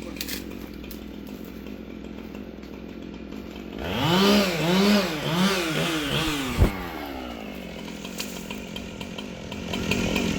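Two-stroke chainsaw running at idle, then revved in four or five quick throttle bursts about four seconds in, its pitch rising and falling with each, before dropping back to idle. A single sharp knock sounds during the revving.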